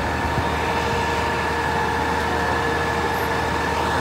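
A heavy engine running steadily, a constant drone with a steady whine over a low rumble.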